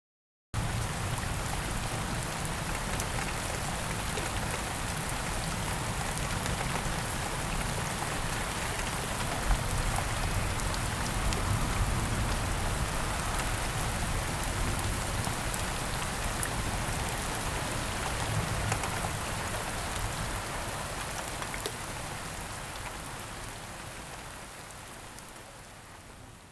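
Steady rain falling, with fine drop ticks over a low rumble. It starts suddenly and fades out near the end.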